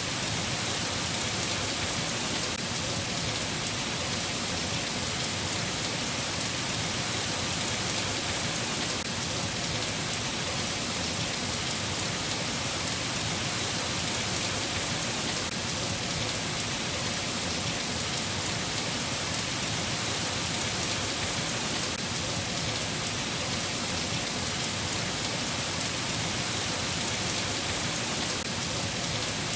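Steady, even rainfall, with no thunder claps.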